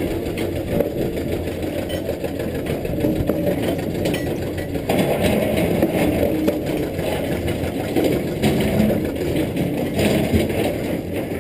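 Caterpillar 320D excavator's diesel engine running, its level rising and falling a little.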